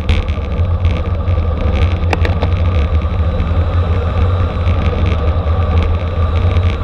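Steady wind rush and low road rumble from a bicycle racing at speed, heard on the bike's camera microphone, with a few sharp clicks about two seconds in.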